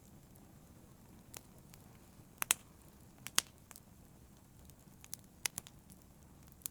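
Fire crackling: scattered sharp pops at irregular intervals, the loudest a close pair about two and a half seconds in, over a low steady rumble of the flames.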